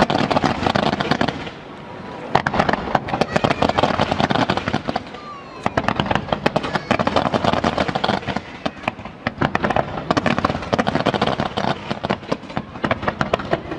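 Fireworks display: dense volleys of sharp bangs and crackling reports come in about four waves of a few seconds each, with short lulls between them.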